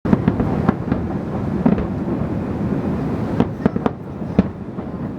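Aerial fireworks bursting: a string of sharp bangs, several in quick succession a little past the middle, over a continuous low rumble of further bursts.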